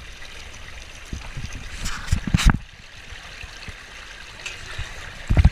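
Water running and splashing down a waterslide, with low thumps and knocks on the microphone, loudest about two and a half seconds in and again near the end.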